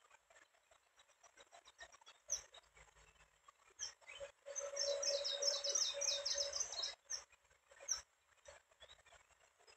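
Small birds chirping outdoors, several short high chirps spaced a second or more apart. About halfway through comes a fast run of high notes lasting about two and a half seconds, over a rushing noise.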